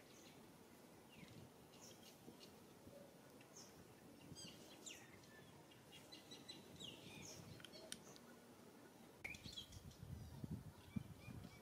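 Faint, scattered chirps of small birds, short high notes, some falling quickly in pitch, over a quiet outdoor background, with a few soft low bumps near the end.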